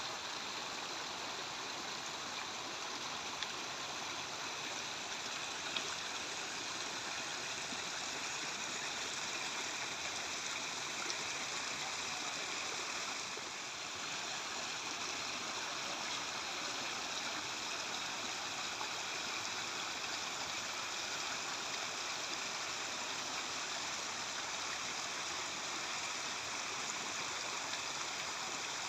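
Water flowing in a small river or channel: a steady, even rushing, briefly a little softer about halfway through.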